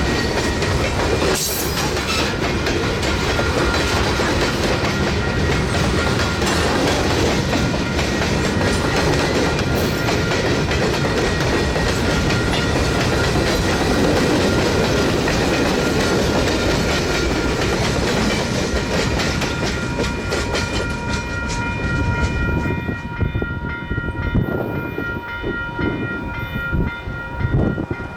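Freight train rolling past: a steady rumble with wheel clatter over the rail joints. About 22 seconds in the rumble thins out and becomes more uneven, leaving a few steady tones.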